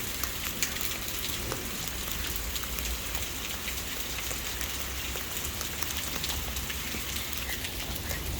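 Storm rain falling steadily, with many small sharp drop hits over a constant hiss.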